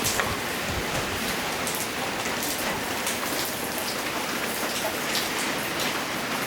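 Rain falling: a steady hiss with scattered drop ticks.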